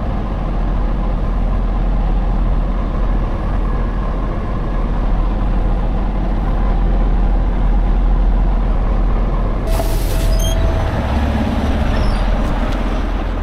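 Heavy truck diesel engine running steadily with a deep rumble, and a short sharp hiss of air, like an air brake being released, about ten seconds in.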